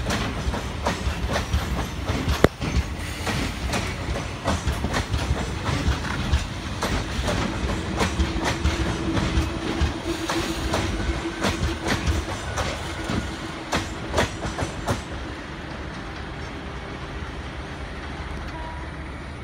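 Indian Railways passenger coaches rolling past on the next track, their wheels clacking steadily over the rail joints. About three-quarters of the way through the clacking stops, and a quieter steady rumble remains as the end of the train moves away.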